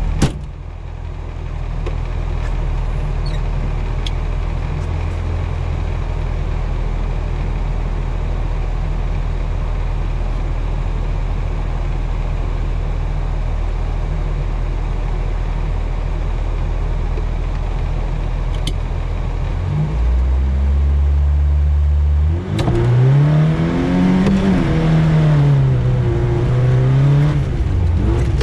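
Lada VAZ 2105 rally car's four-cylinder engine running steadily at low revs, then held at higher revs near twenty seconds in. A couple of seconds later it pulls away hard, its revs rising and falling again and again.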